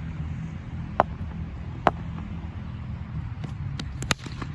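Two sharp knocks with a short ring, about a second apart, then a quick cluster of lighter clicks near the end, over a steady low rumble.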